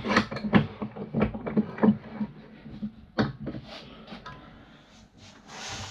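Knocks and clicks of fan-motor parts being handled and set down on a workbench: a quick run of them in the first two seconds, then a single sharp knock about three seconds in and a few lighter ticks.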